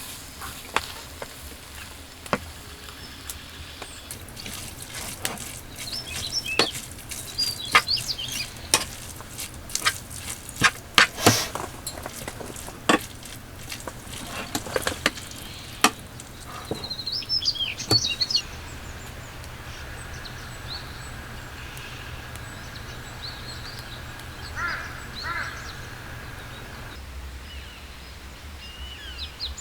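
Irregular sharp ticks and pops over a soft hiss, thickest in the first half, with birds chirping now and then.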